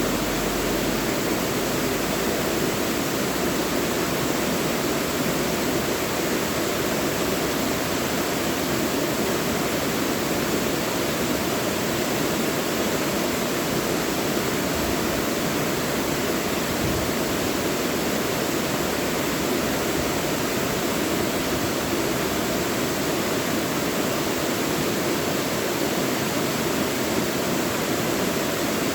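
Mountain valley stream, water rushing steadily and evenly.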